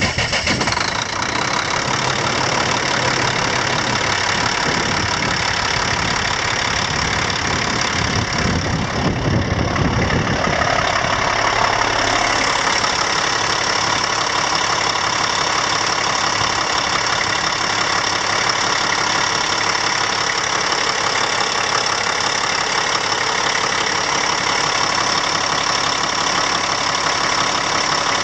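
A heavy truck's diesel engine idling steadily. The low end is uneven for the first ten seconds or so, then evens out.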